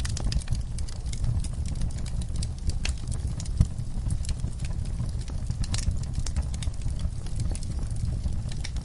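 Wood fire in a fireplace crackling, with frequent sharp pops and snaps over a low rumble of the flames, and one louder pop about three and a half seconds in.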